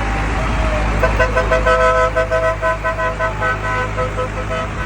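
A vehicle horn giving a rapid string of short two-toned beeps, about four a second, over the steady low rumble of tractor engines.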